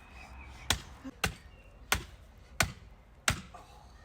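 Five sharp chopping strikes, evenly spaced about two-thirds of a second apart, as the bones of a piece of bush meat are broken with a blade.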